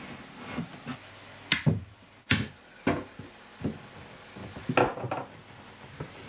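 Handling noises in a small cabin: a few separate sharp knocks and clatters, the loudest about one and a half and two and a half seconds in, as hoses and fittings are worked into place.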